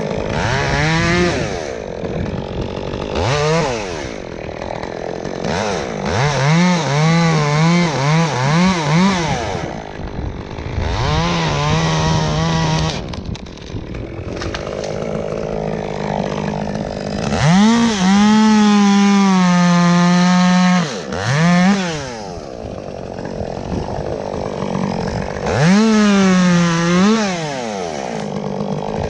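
Gas chainsaw revving up and down in repeated bursts, the throttle blipped several times and held at full speed for a few seconds at a time, the longest hold about three seconds just past the middle, dropping back toward idle between bursts.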